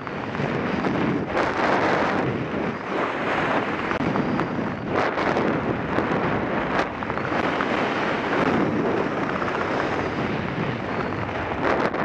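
Heavy wind rushing and buffeting over the microphone: a loud, uneven roar that swells and dips, with no engine or rotor beat standing out.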